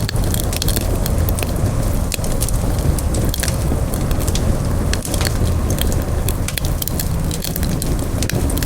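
Campfire burning, a steady low rumble of flames with frequent irregular sharp crackles and pops of burning wood.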